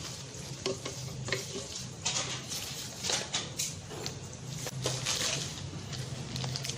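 Dental scaler LED handpiece being fitted onto its cord connector by hand: scattered clicks and scrapes of hard plastic parts being handled and pushed together.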